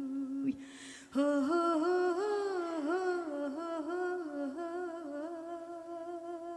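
A female singer's voice singing a slow Kurdish folk song. A held note breaks off and she draws a breath about a second in, then comes a long, heavily ornamented line with pitch that bends and wavers.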